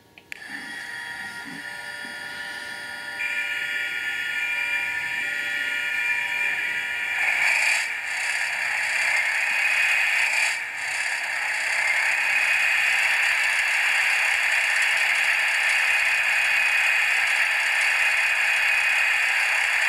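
Sound decoder of an N-scale BR 218 model diesel locomotive playing its engine running sound. The sound starts just after the beginning, grows louder in steps at about three and about seven seconds, then runs steadily.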